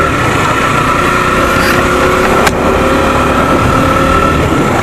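Motorcycle engine running steadily while being ridden, with heavy rumble of road and wind noise; a single sharp click about halfway through.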